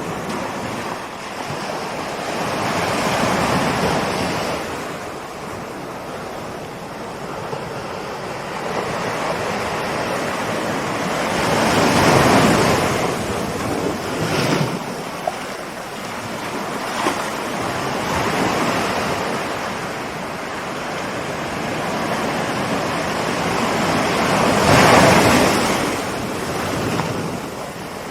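Ocean waves rolling in and breaking on the shore, a steady wash of surf that swells to louder crashes every several seconds, loudest about twelve seconds in and again near the end.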